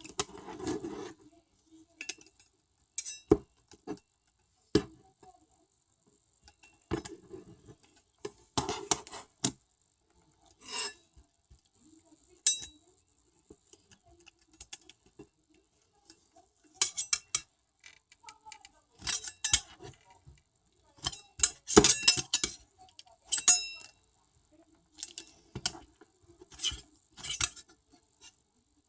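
Irregular taps, clicks and light scraping of small hard objects being handled, with a busier run of clinking in the second half.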